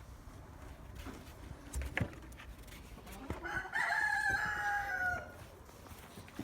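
A rooster crowing once, about four seconds in: a single call of about a second and a half that falls in pitch at the end.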